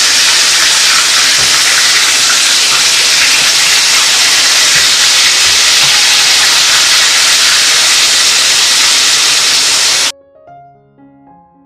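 Flour-coated chicken pieces deep-frying in hot oil: a loud, steady sizzle. It cuts off suddenly near the end, and soft piano music follows.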